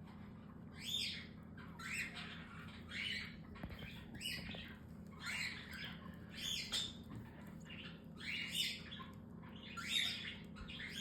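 Baby cockatiel chicks making harsh, hissing begging calls, about one a second.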